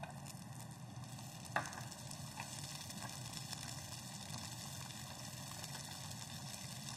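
Sliced hot peppers sizzling as they hit olive oil and chopped garlic in a frying pan, with one sharp knock on the pan about a second and a half in and a few light scrapes as they are stirred with a spatula.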